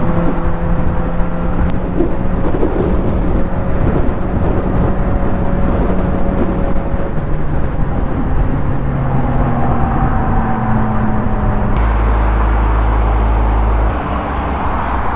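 Motorcycle engine running while riding, heard through a helmet camera with heavy wind rumble on the microphone. The engine note shifts in pitch several times.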